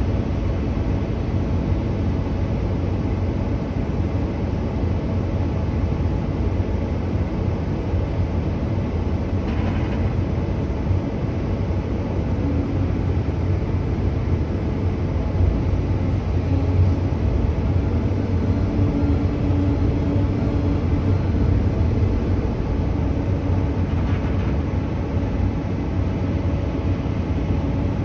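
A heavy vehicle's diesel engine running steadily with a low, even rumble.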